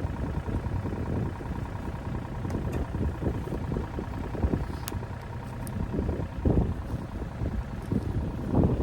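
Engine of a work machine running steadily, with gusty rumble over it.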